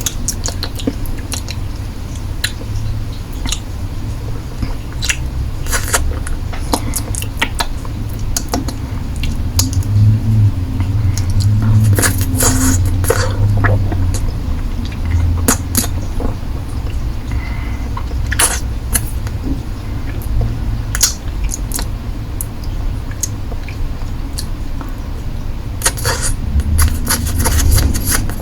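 Close-miked mouth sounds of someone sucking and licking a hard-candy lollipop: irregular wet clicks and smacks over a low steady hum, in denser clusters about halfway through and near the end.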